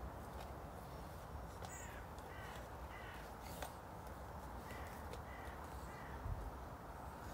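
A bird calling in the distance: a quick run of four or five short calls about two seconds in, then two or three fainter ones around five seconds, over a steady low rumble, with a few scattered clicks.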